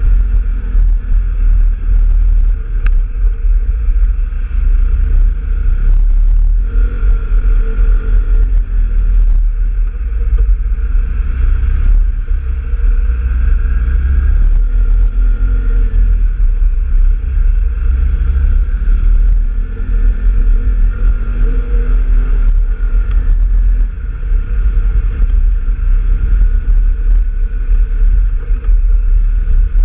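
Off-road vehicle engine running while riding, its pitch rising and falling with the throttle, under heavy wind rumble on the microphone.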